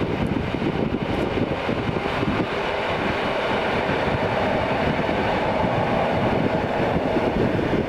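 A train running past, a steady loud rush of wheels on rails that falls away sharply near the end.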